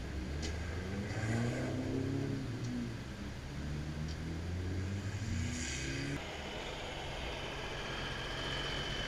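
A motor vehicle's engine revving, its pitch rising and falling. About six seconds in, it gives way abruptly to a steady hiss.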